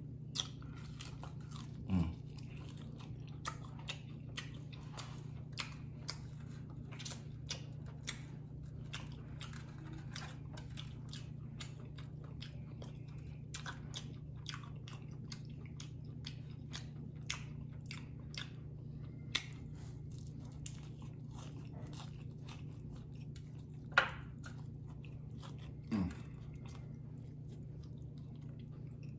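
Close-miked chewing and crunching of crispy fried chicken wings: a steady run of small crackles from the fried skin, with a few louder mouth sounds about two seconds in and again near the end.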